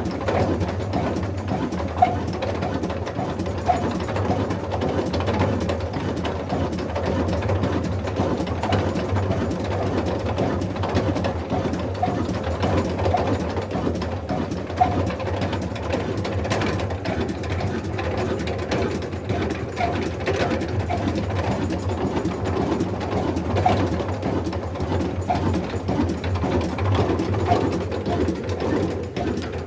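Old black desi diesel engine running steadily with an even, fast beat.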